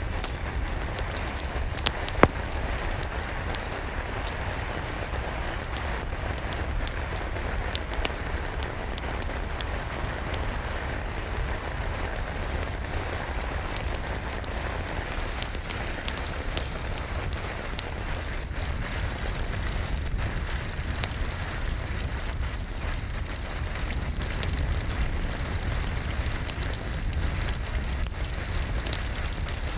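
Steady rain hissing, mixed with the crackling of a wood fire: scattered sharp pops over the even rain, with a low rumble underneath.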